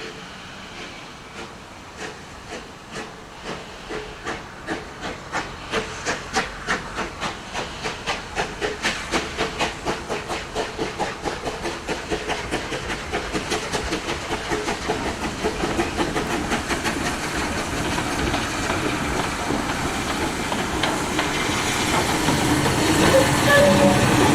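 Bulleid West Country class three-cylinder steam locomotive pulling away, its exhaust chuffs starting slow and quickening and growing louder as it gathers speed, until the beats run together into a continuous rush, with steam hiss throughout.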